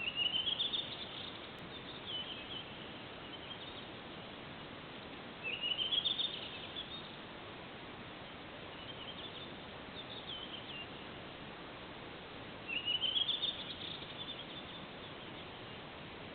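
A songbird singing three loud rising trilled phrases, each about a second and a half long, about six to seven seconds apart, with softer short phrases between them over a steady hiss.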